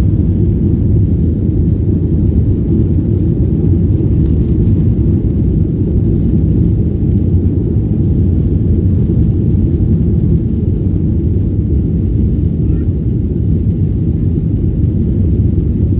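Steady low rumble of a Boeing 737-800's CFM56 turbofan engines during takeoff, holding an even level throughout.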